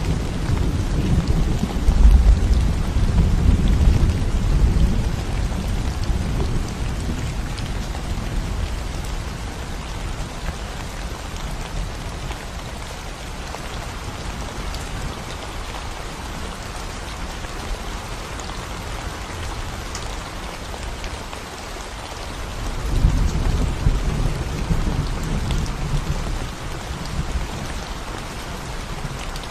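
Steady rain falling on a concrete road, an even hiss of drops. A low rumble at the start fades out over the first few seconds, and another low rumble swells up about 23 seconds in.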